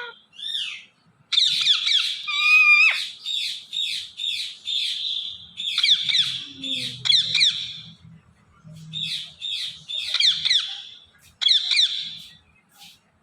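Indian ringneck parakeet chattering: rapid high-pitched chirps and squawks in quick runs. The run begins about a second in and breaks off briefly near the middle before a few more bursts.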